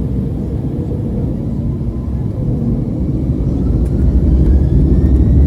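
Embraer E195's turbofan engines spooling up, heard from inside the cabin: a steady low rumble that grows louder over the second half, with a whine rising steadily in pitch.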